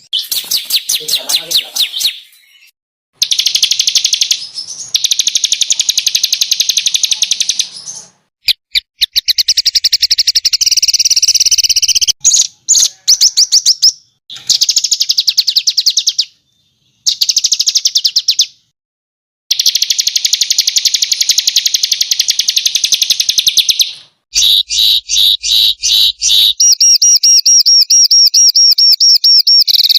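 Small songbirds singing loud, very rapid harsh trilled phrases ('tembakan kasar', rough shots), one phrase after another, with abrupt silent breaks between them as in an edited birdsong master track.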